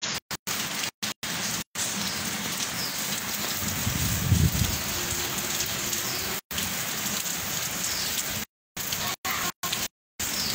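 Steady rain falling, an even hiss with a brief low rumble about four seconds in. The sound drops out completely for a moment several times.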